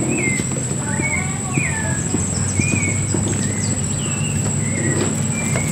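Birds calling with repeated short downward-sliding chirps, about one a second, over a steady high whine and a low steady hum.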